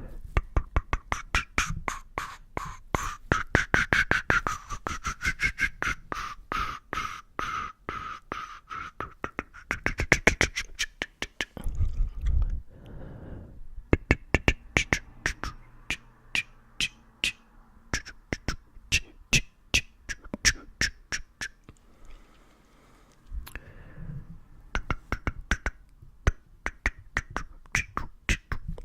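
Rapid close-miked ASMR mouth clicks and pops, several a second, with two short pauses.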